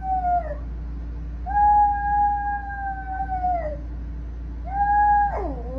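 A pet animal howling: three long, steady, drawn-out calls, the middle one held about two seconds, each sliding down in pitch at its end, then a wavering call that falls away near the end.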